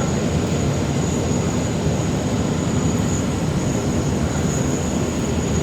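Steady low rumble of airliner jet engines with a thin high whine, an Airbus A380 taxiing in toward its parking stand, heard from inside a bus over its idling engine.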